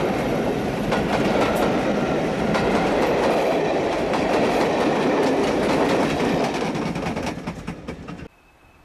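A diesel-hauled train passing, its wheels clicking over the rail joints under a heavy rumble. The sound starts to fade about seven seconds in, then cuts off abruptly.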